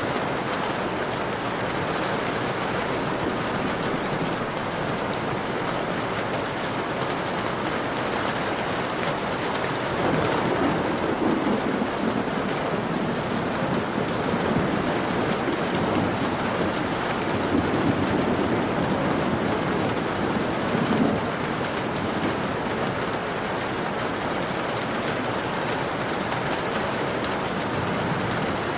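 Steady rain pattering on a window pane. A low rumble of distant thunder swells in about ten seconds in and dies away about ten seconds later.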